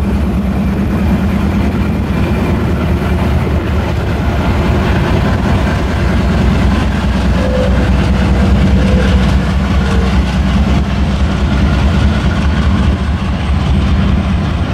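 Several diesel-electric freight locomotives pulling an iron ore train past at close range, their engines running with a steady low drone over rolling wheel and rail noise.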